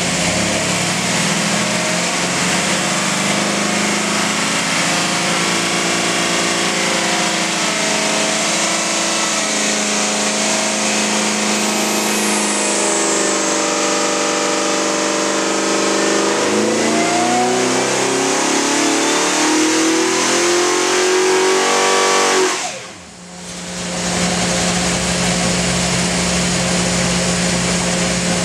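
Boss 427 stroker V8 running on an engine dyno during a pull. It runs steadily at first, then climbs in pitch for about six seconds as the revs sweep up. About 23 seconds in it cuts off sharply as the throttle closes, then settles back to a steady run.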